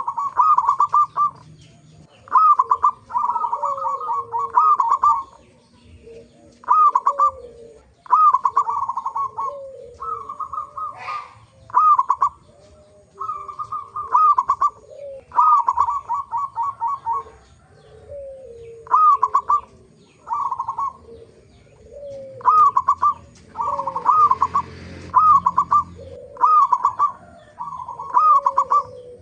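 Zebra doves (perkutut) cooing over and over: short phrases of quick, staccato high coos, with lower falling notes woven between them, repeating every second or two.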